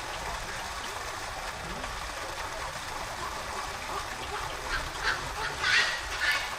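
Several short bird calls in quick succession, starting about two-thirds of the way in, the loudest near the end, over a steady low background noise.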